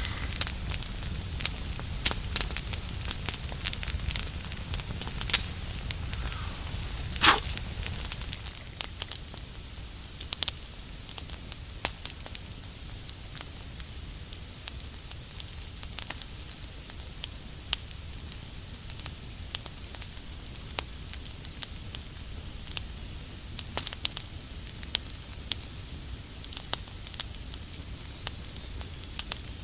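Wood campfire crackling, with irregular sharp pops throughout and one louder pop about seven seconds in.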